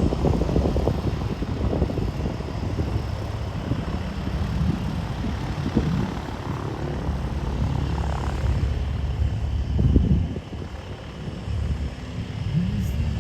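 Light single-engine propeller airplane's piston engine running, heard from the runway side. Its pitch rises and falls briefly near the end.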